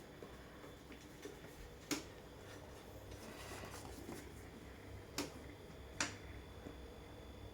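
Three sharp clicks over a faint low hum: one about two seconds in, then two more close together near the end.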